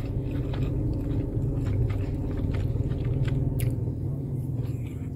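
A person chewing a mouthful of beef pulao close to the microphone, with small wet clicks and crunches, over a steady low hum.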